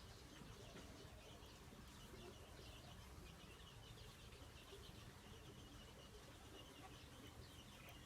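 Faint birds chirping, many short calls one after another, over a low steady background hiss.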